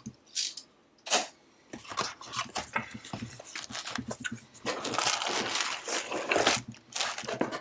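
A building-brick set being unboxed: cardboard and plastic parts bags handled, with scattered clicks and knocks and a longer crinkling rustle about five seconds in.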